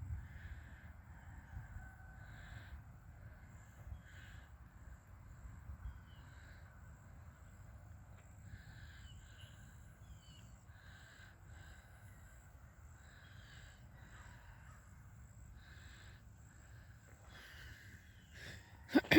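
Faint bird calls repeating every second or two over a low rumble, ending in a sharp, loud bump.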